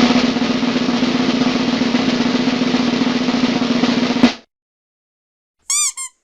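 Snare drum roll sound effect, a fast steady roll of about four seconds ending in a single sharp hit. Near the end, two short chirps rise and fall in pitch.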